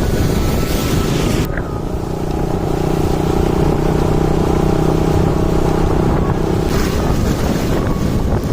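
Wind buffeting the microphone of a moving motorcycle, with a steady engine drone in the middle stretch that fades back into the wind rumble near the end.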